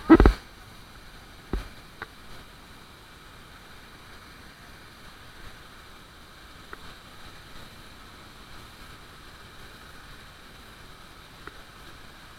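Faint, steady rush of a waterfall's falling water. A loud blast of wind or handling noise comes right at the start, and a sharp knock about a second and a half in.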